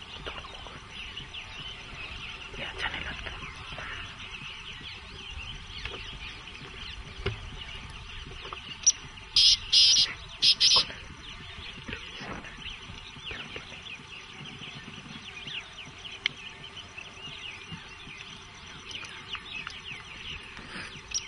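Wild birds chirping and calling in the background, with a run of four loud, harsh bird calls about nine to eleven seconds in.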